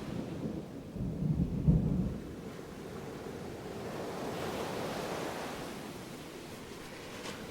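Distant thunder rumbling low over ocean surf. The rumble dies away about two seconds in, leaving the steady wash of waves, which swells up a little past the middle.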